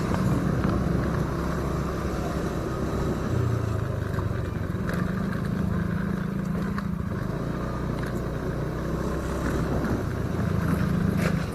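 Motorcycle engine running while riding, its pitch shifting a few times with the speed, with wind rushing over the microphone.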